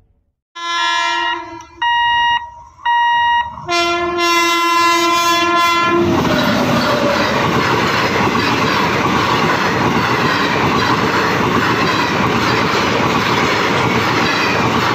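Indian Railways WAP-7 electric locomotive horn sounding at a level crossing: a blast of about a second, two short blasts, then one long blast. About six seconds in, the horn gives way to the steady rumble and clatter of an express train's coaches passing at high speed.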